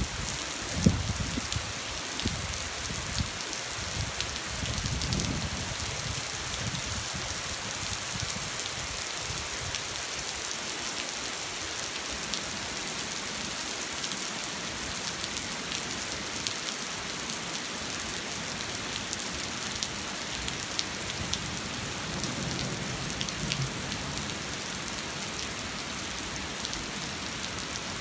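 Steady rain falling and pattering on a hard surface such as a street, with a few low knocks in the first few seconds.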